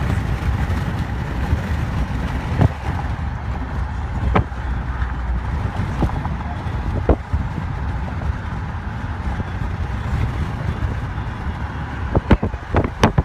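Car driving on the highway, heard from inside the cabin: a steady low road and engine rumble. A few sharp clicks cut through it, with a quick cluster of them near the end.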